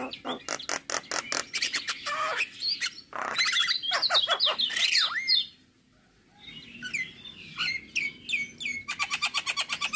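Male Javan myna singing a varied song: rapid runs of repeated chirps, rising and falling whistled notes and harsher calls, with a short pause about halfway through before another fast run of chirps.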